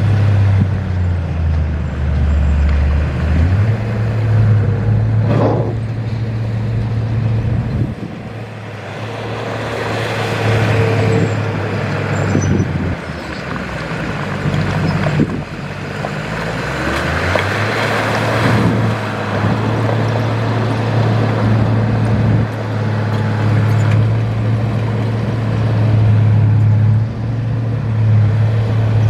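Heavy diesel earthmoving engine running under varying load, its steady drone dropping and picking up again several times, with louder rattling, noisy stretches in the middle.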